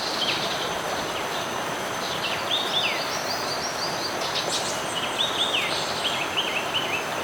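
Outdoor nature ambience: a steady rushing noise with quick runs of short, falling chirps, mostly about two and a half to three and a half seconds in and again from about five seconds in, over a thin, steady high whine.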